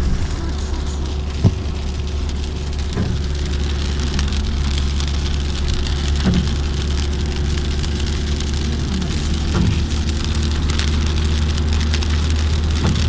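Rain falling on a moving car, heard from inside the cabin, over a steady low drone of road and engine noise, with a few sharp taps.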